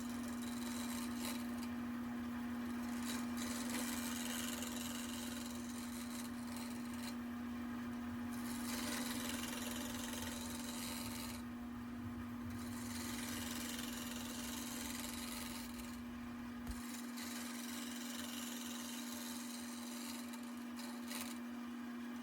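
Wood lathe running with a steady hum while a gouge cuts a spinning walnut table leg, a hissing scrape that pauses briefly several times as the tool comes off the wood.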